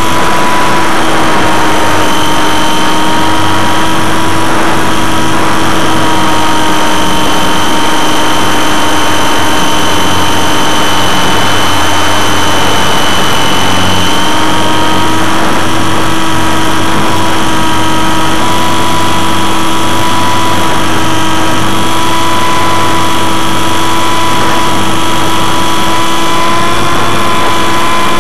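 GWS Slow Stick electric model plane's motor and propeller running steadily in flight, heard from the camera it carries: a loud, steady whine over rushing air, its pitch sagging and rising slightly with the throttle.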